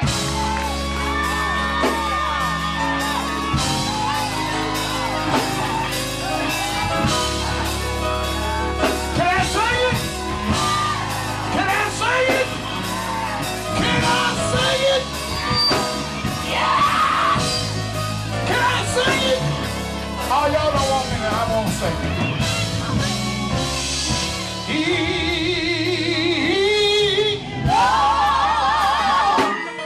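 Gospel group singing live with a band: a steady bass line and regular drum beat under a lead voice making bending runs and shouts, backed by other singers. Near the end the singers hold long notes with a wide vibrato.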